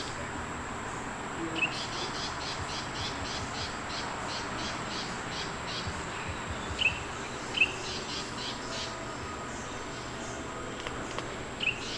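Outdoor background: a rhythmic insect trill of about four pulses a second for a few seconds, with four short, sharp bird-like chirps over it, the loudest sounds here.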